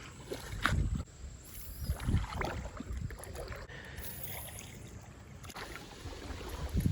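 Creek water sloshing and splashing around a wader's legs, in a few irregular surges over a low steady wash.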